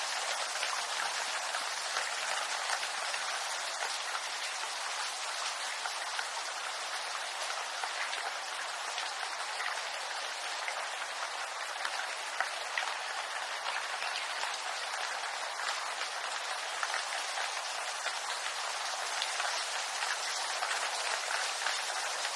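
Steady rain falling on bamboo leaves: an even hiss dense with many small drop ticks.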